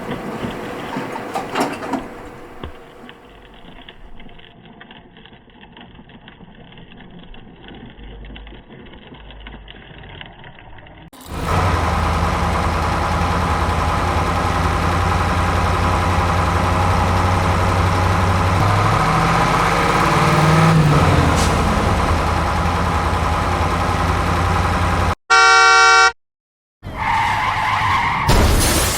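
Edited vehicle sound effects: a loud, steady engine drone with a low hum, then a single horn blast lasting about a second, followed by a sudden dropout to silence.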